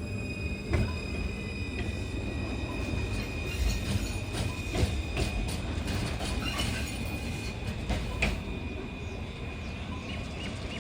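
C-class tram rolling along the rails with a steady high-pitched wheel squeal over a low running rumble, and several sharp clacks from the wheels over the track.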